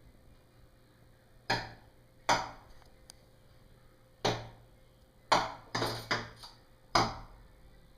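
A bird striking window glass: about seven sharp taps at uneven intervals, each with a short ringing decay, three of them in quick succession a little past halfway.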